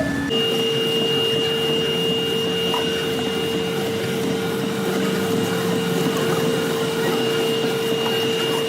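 Metalworking machine tool running steadily, a constant whine over an even mechanical hum.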